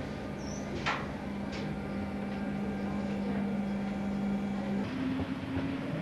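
Electric railcar running, with a steady hum and a few sharp clicks. About five seconds in, the hum jumps to a slightly higher pitch.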